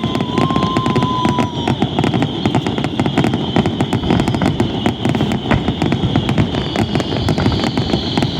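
Fireworks finale barrage: a dense, unbroken run of overlapping bangs and crackles. A thin whistle, falling slightly in pitch, fades out about two seconds in.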